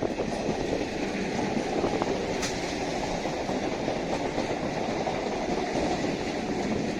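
Electric suburban local train (EMU) running past on the track: a steady noise of wheels on the rails, with a brief high squeak about two and a half seconds in.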